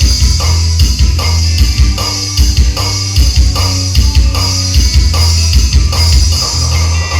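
A song with drum kit, guitar and a strong pulsing bass line, played loud through a 12-inch Legacy LG-1299 subwoofer and a 6-inch Marcopolo mid speaker driven by an Ashley PA800 power amplifier, as a sound test of the amplifier.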